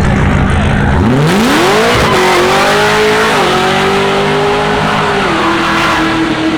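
Car engine revving up sharply about a second in and held at high revs for several seconds, with the hiss of spinning tyres: a burnout.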